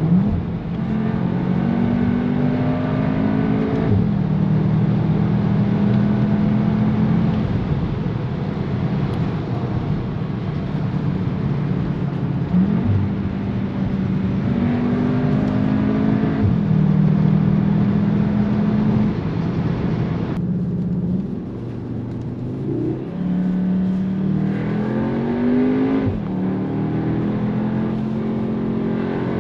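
Cupra Formentor VZ's 2.0 TSI turbocharged four-cylinder engine and exhaust under hard acceleration, the engine note climbing and then dropping sharply at each quick DSG upshift. About twenty seconds in the engine note eases off briefly, then climbs again through more upshifts.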